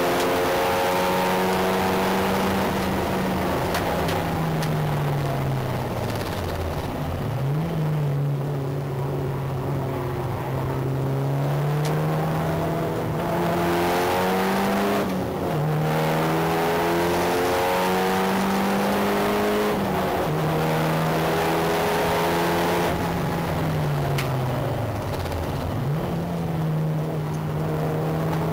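Mitsubishi Lancer Evo VI's turbocharged four-cylinder engine being driven hard on track, revs climbing and falling with gear changes and dropping low twice as the car slows, about a quarter of the way in and near the end. Heard from outside the car above the front wheel, with wind and tyre noise underneath.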